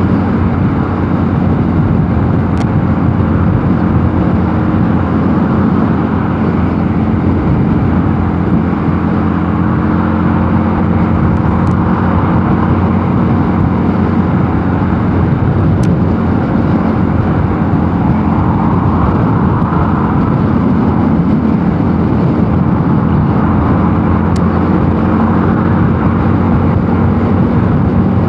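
Mondial Nevada 250 motorcycle engine running at a steady cruising speed, with wind rush on the microphone.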